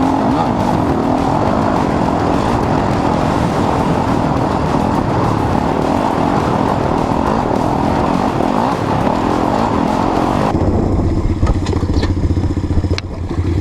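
Dirt bike engine running hard and loud. About ten seconds in, the sound cuts abruptly to a steadier, lower engine note with a few clicks.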